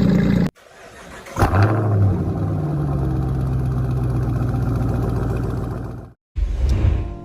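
A car engine cold-starting: a brief crank, a rev flare as it catches, then a steady fast idle. The sound cuts off abruptly near the end, and a short burst of engine sound follows.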